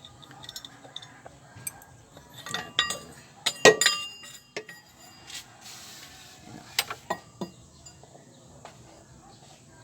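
Metal tools and parts clinking and knocking together, sharp ringing clinks bunched about two to four seconds in, and a few more around seven seconds.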